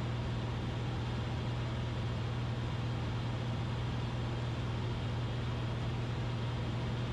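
Cessna 172RG's Lycoming four-cylinder engine and propeller droning steadily in cruise, heard inside the cabin, with power set back to about 22 inches of manifold pressure.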